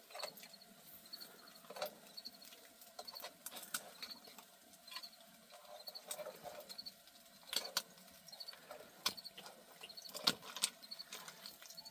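A faint high chirp of two or three quick notes repeating about once a second, with scattered sharp clicks and knocks; the loudest knock comes about ten seconds in.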